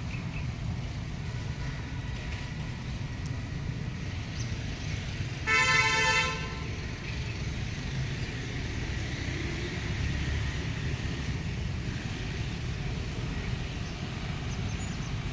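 A horn honks once for about a second, about five and a half seconds in, over a steady low rumble of outdoor street noise.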